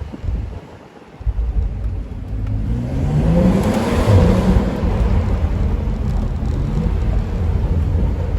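Car engine accelerating hard. It comes in loud about a second in, rises in pitch over the next few seconds, and keeps pulling loudly until it cuts back near the end.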